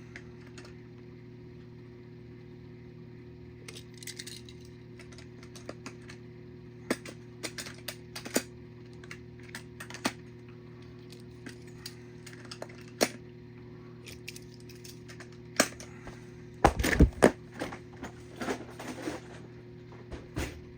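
Die-cast toy cars and their plastic storage case being handled: scattered sharp clicks and knocks, with a burst of louder clattering about seventeen seconds in. A steady low hum runs underneath.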